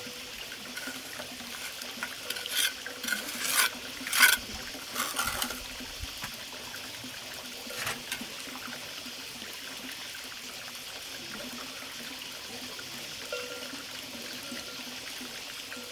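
Water trickling steadily, with a few short, louder splashing or scraping sounds a few seconds in and one more near the middle.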